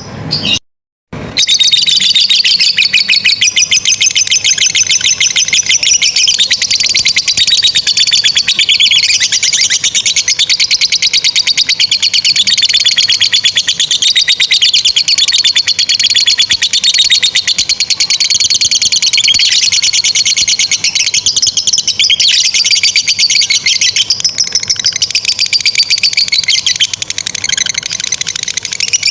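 Lovebird ngekek: a long, unbroken run of rapid, high chattering notes, fast repeated clicks and trills that go on without pause. It starts about a second in, after a short silent gap.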